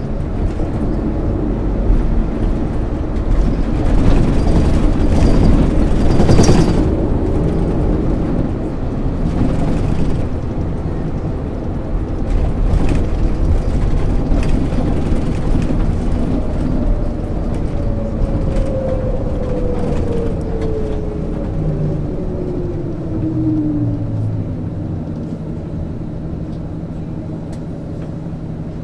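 MAN ÜL 353 intercity bus heard from on board under way, its diesel engine and drivetrain running steadily with road noise. A louder noisy stretch comes about six seconds in. Later a whine falls steadily in pitch over several seconds.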